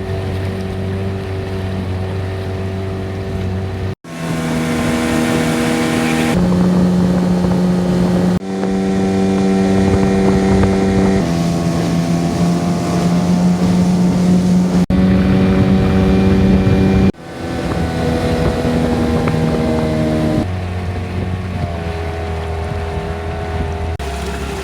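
Small outboard motor running steadily, heard in several cut-together clips, its pitch changing at each cut, with some wind on the microphone.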